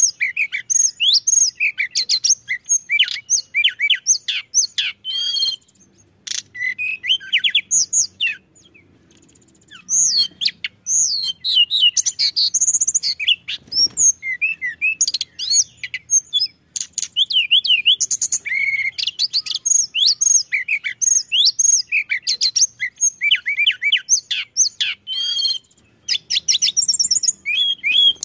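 Tledekan gunung songbird singing energetically in fast, high whistled phrases of quickly rising and falling notes, with a few short pauses, the longest about eight seconds in.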